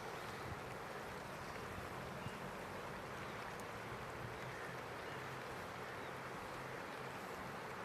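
River in flood flowing past with a steady, even rush of water.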